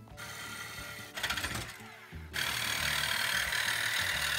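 Reciprocating saw with a metal-cutting blade cutting through aluminium plate held in a vise: quieter and uneven at first, then cutting steadily and much louder from about two seconds in.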